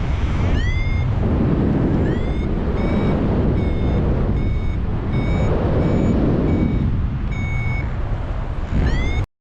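Paragliding variometer beeping over steady wind noise on the microphone: a few rising chirps, then short even beeps about twice a second and one longer beep, the vario's climb tone signalling that the glider is in rising air. The sound drops out for an instant near the end.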